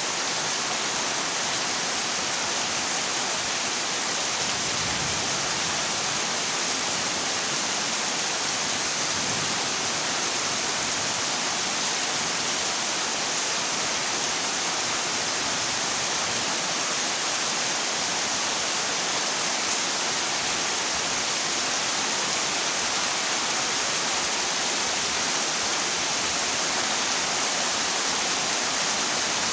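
Heavy rain drumming steadily on a corrugated zinc roof, an even hiss with no breaks.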